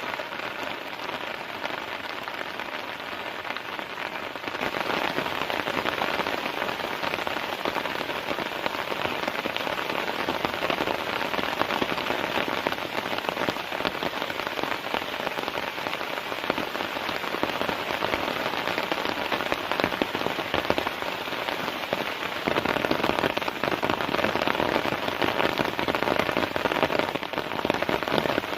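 Heavy, continuous rain falling, a dense hiss of many fine drop hits. It grows louder about four and a half seconds in and again about twenty-two seconds in.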